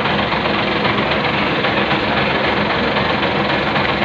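Fishing boat engine running steadily at close range, with a fast, even chugging.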